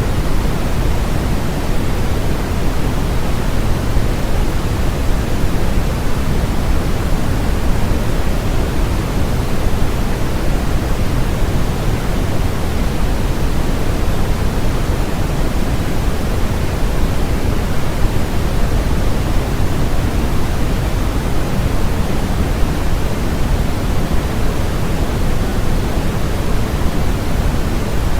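Steady generated noise, sold as white noise, unchanging throughout. It has a fuller low end and softer highs, closer to pink noise than flat white noise.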